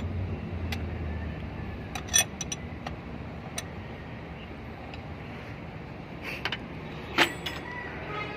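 Scattered sharp metallic clicks and knocks from handling tools and engine parts, the loudest about two seconds in and again near the end, over a steady low rumble that fades about a second in.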